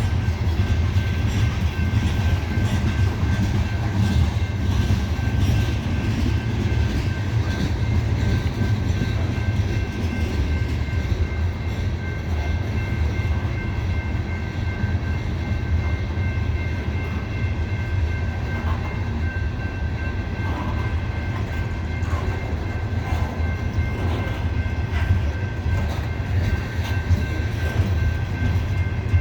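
Loaded CSX coal train rolling slowly past at a crawl on a grade: a steady low rumble with light wheel clicks and a faint, steady high-pitched whine running under it.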